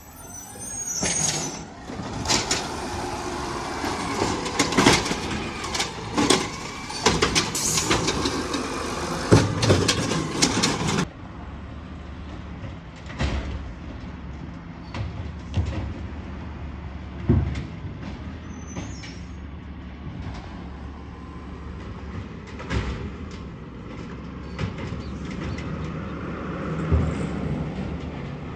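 Garbage truck at work: its engine runs under many loud clanks and bangs for about the first eleven seconds. After that the engine runs more steadily and quietly, with an occasional knock.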